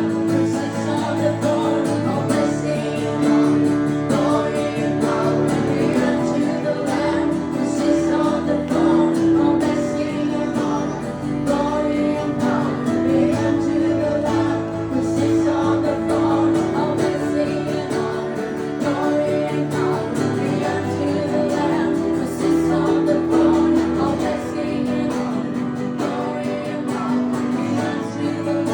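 Live acoustic worship music: acoustic guitar played under singing, continuous and steady with sustained notes.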